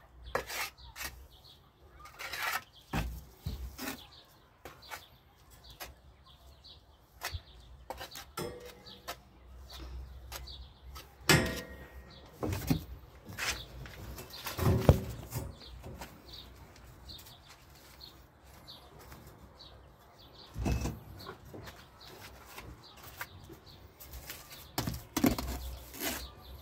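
Irregular knocks and clacks of stones being handled and set in place, some much louder than others.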